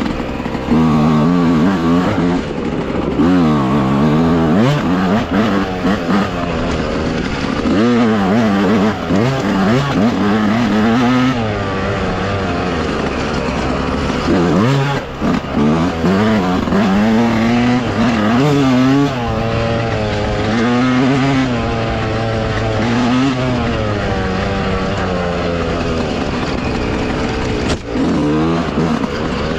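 Dirt bike engine being ridden hard, its pitch climbing and dropping every second or two as the throttle opens and closes and the gears change.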